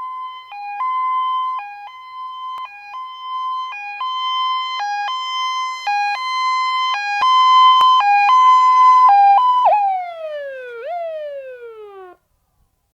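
Ambulance siren sounding a two-tone hi-lo pattern, alternating between a higher and a lower note and growing louder. About ten seconds in it switches to a falling tone that winds down in pitch, with one short rise along the way, and cuts off near the end.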